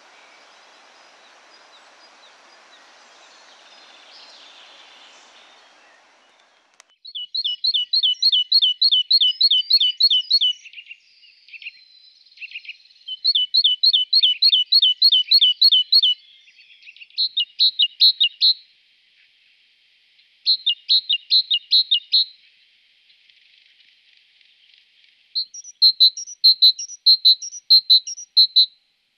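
Faint steady noise, then from about seven seconds in a songbird singing loud phrases of rapidly repeated high notes. Each phrase lasts one to three seconds, with short pauses between.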